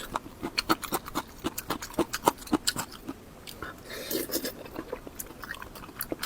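Close-miked chewing of crunchy gongcai (dried celtuce stem): many sharp, irregular crunches and wet mouth clicks, several a second, easing into softer, wetter chewing around the middle.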